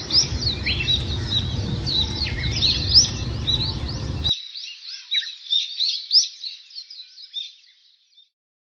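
A flock of small birds chirping densely, many short overlapping calls, with a low wind rumble that cuts off suddenly about four seconds in. The chirping fades away near the end.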